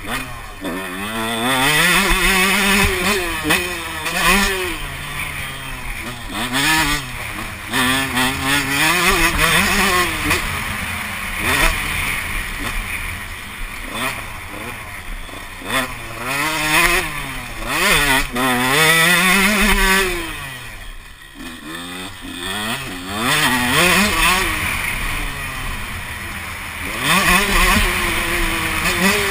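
Motocross bike engine revving hard and shifting, its pitch climbing and dropping over and over as the rider opens and closes the throttle. The engine backs off briefly about two-thirds of the way through, then pulls hard again.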